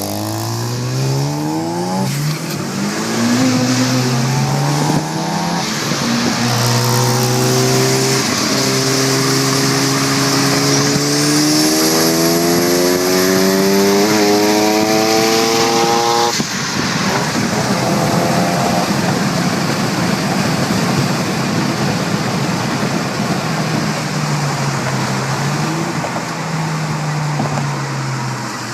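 Turbocharged sports car engine at full throttle, its pitch climbing through several gears with a drop at each shift. About sixteen seconds in the throttle closes suddenly and wind and road noise take over.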